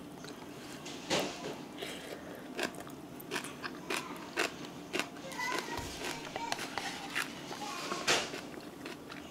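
Close-miked eating sounds of someone chewing Buldak spicy stir-fried noodles: irregular short wet clicks and mouth smacks, the loudest about a second in and again near the end.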